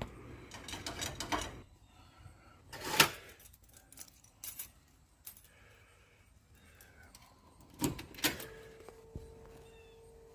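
Keys jangling and a few sharp clicks, then a steady tone comes on about eight seconds in and holds; no diesel engine running is heard.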